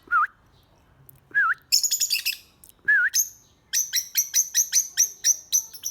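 Pet birds calling: three short wavering whistles and a brief burst of high chirps, then a fast run of high chirps, about five a second, over the last two seconds.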